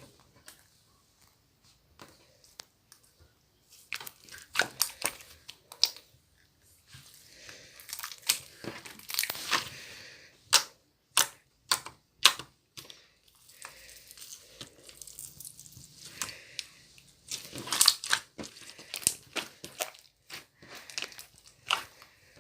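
Slime being squished and stretched by hand, giving irregular sharp pops and crackles in clusters with short quiet gaps between them.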